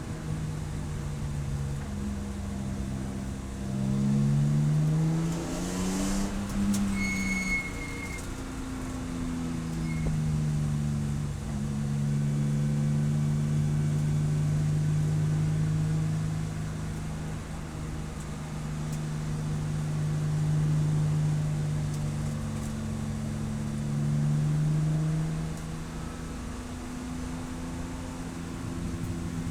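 Race car engine running hard, its note repeatedly climbing with revs and dropping back as the car shifts and brakes.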